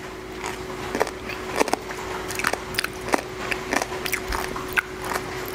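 Close-miked chewing of food, with irregular wet mouth clicks and smacks. A faint steady hum runs underneath.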